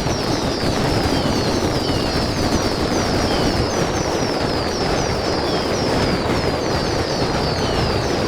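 Fireworks going off in a dense continuous barrage, a steady rumbling crackle of bangs with no pause. Over it a high, falling chirp repeats about three times a second.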